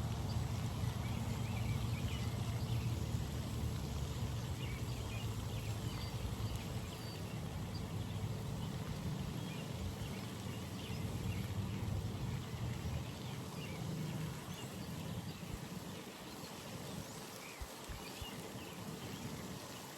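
Outdoor pond ambience: scattered small high chirps over a faint hiss and a low steady rumble that fades away over the last few seconds.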